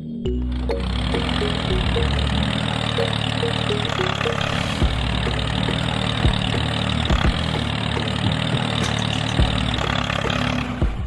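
A machine engine running, a steady rough noise that starts under a second in and cuts off just before the end, over background music.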